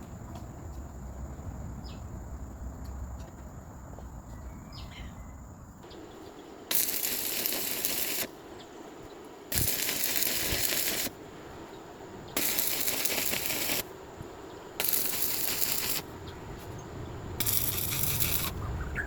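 Five bursts of harsh hissing, crackling noise from a workshop tool, each about a second and a half long with pauses of similar length, starting and stopping abruptly, after a few seconds of low rumble.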